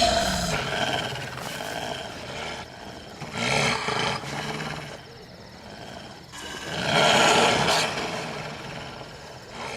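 Big-cat roar sound effects in an advertisement's soundtrack, with the loudest roars coming about three and a half and about seven seconds in.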